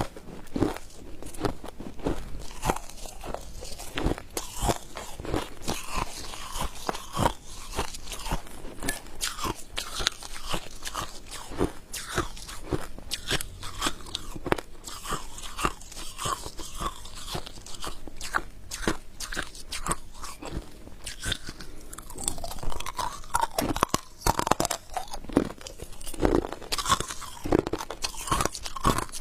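Close-up chewing and crunching of frosty freezer ice: a fast, irregular run of sharp crackly crunches as the ice is bitten and ground between the teeth.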